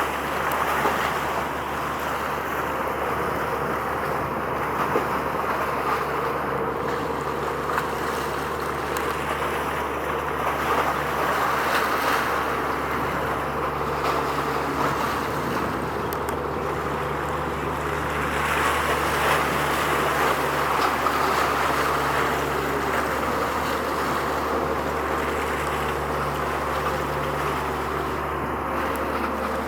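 Steady low engine drone from a vessel under way, mixed with a continuous wash of wind and water noise.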